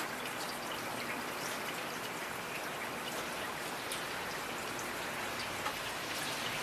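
Steady rain with many individual drops ticking, patters and small splashes scattered through an even rush.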